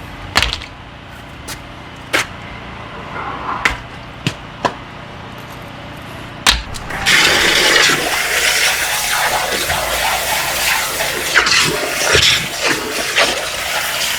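A few sharp metallic clicks and knocks, then about seven seconds in a pressure washer lance starts jetting water into an open driveway drainage gully: a loud steady rushing spray with splashing.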